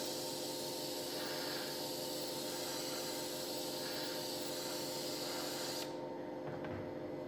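Steady spray hiss over a motor's hum. The hiss stops about six seconds in while the hum runs on briefly.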